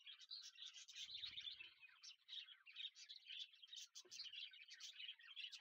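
Faint, busy chirping of many small birds at once, a steady stream of short high calls overlapping one another. There are soft low rumbles about a second in and again around four seconds.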